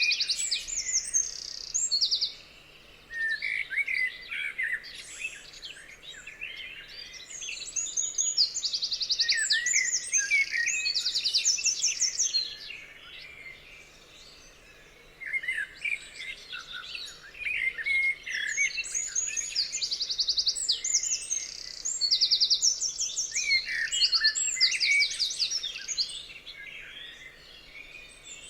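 Songbirds singing, several at once: chirps and rapid high trills overlapping in dense bursts, twice dropping to a brief lull.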